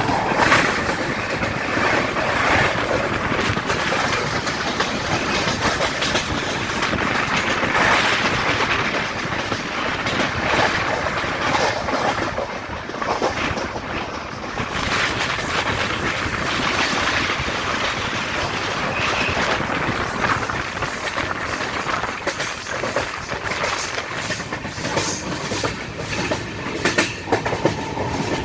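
Moving passenger train heard from its coach: a steady rumble of wheels on the track, with the clickety-clack of wheels over rail joints, the clicks sharper and more frequent near the end.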